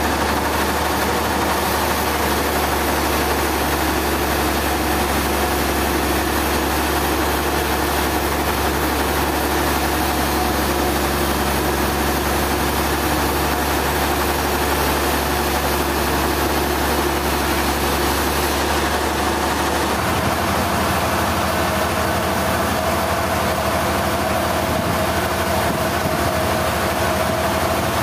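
Sawmill machinery running steadily at high level, a dense hiss with a held whine. About two thirds of the way through, the low hum changes and the whine steps up slightly in pitch.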